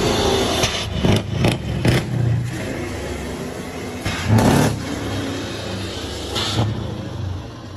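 A vehicle engine running hard, with a series of knocks and clunks: several about a second in, a louder one a little past four seconds and another near six and a half seconds.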